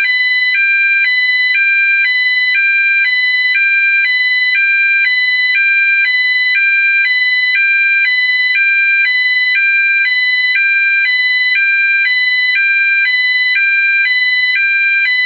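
GE AS363 signal sounding an 800 Hz to 1000 Hz alternating high-low tone at a 1 Hz rate: two pitches switching evenly about every half second, steady and loud. This is a slower version of the British Standard low-frequency high-low tone.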